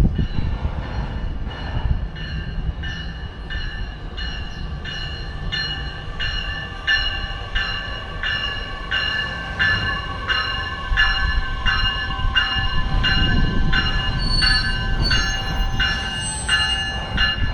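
A railroad bell ringing steadily, about one and a half strokes a second, over the low rumble of a train on the tracks, with a faint steady higher tone alongside.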